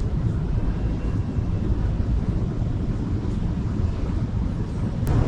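Steady low rumble of city street ambience: traffic noise mixed with wind buffeting the microphone, with one short click near the end.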